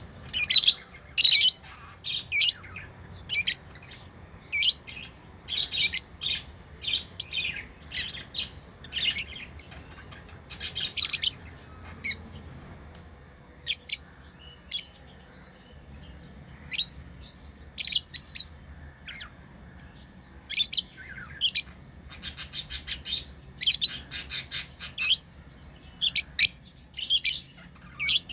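Pet lovebirds chirping: many short, sharp, high calls in irregular clusters, with a brief lull a little before the middle.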